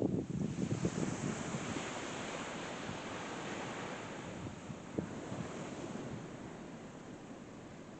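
Strong wind buffeting the microphone at first, then a steady rushing hiss of wind that slowly fades, with one small knock about five seconds in.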